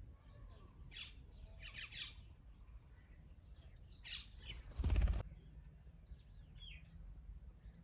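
Birds calling in short, scattered bursts. About five seconds in there is a loud half-second burst of noise, the loudest sound here.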